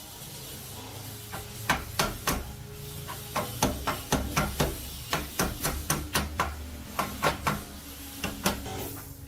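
A quick, irregular series of about twenty sharp taps or knocks over a low hum.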